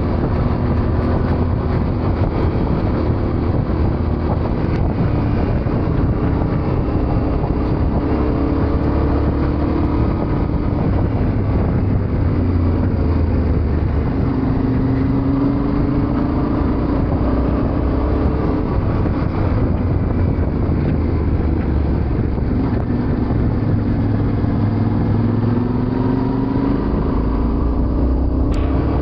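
Yamaha Ténéré 700's parallel-twin engine running while the bike is ridden, its pitch rising and falling slowly with the throttle over a steady rush of road and wind noise.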